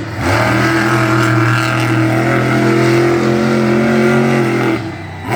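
Monster truck engine held at high revs, a loud, steady pitch for about four and a half seconds, then dropping off near the end.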